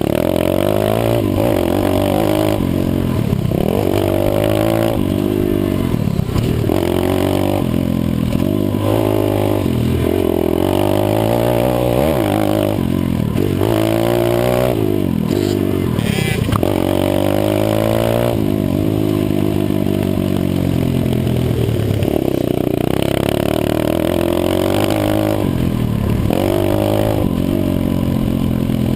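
150cc pit bike's single-cylinder four-stroke engine revving hard and easing off again and again as the throttle is worked, its pitch rising and falling every second or two.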